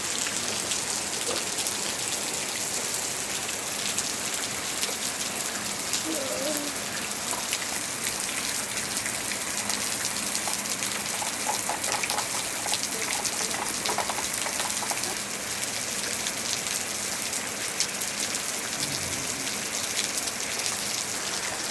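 Steady rain falling and pattering on surfaces: an even hiss dotted with many small drop ticks.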